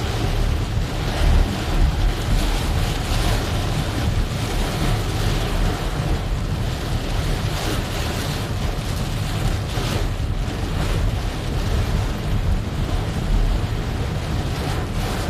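Heavy rain falling in a steady rushing hiss, with a deep rumble of wind on the microphone.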